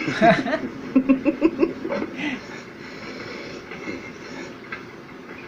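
A voice speaking for about two seconds, then a faint steady background hum.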